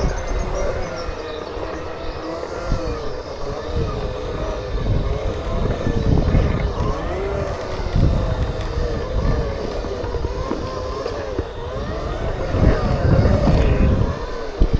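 Segway electric motors whining, the pitch rising and falling as the riders speed up and slow down, over a gusting low rumble.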